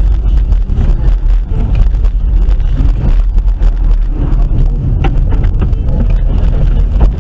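Car on the move heard from a dashcam: a steady low rumble of engine and road noise with wind buffeting the microphone, and a few short knocks about five seconds in.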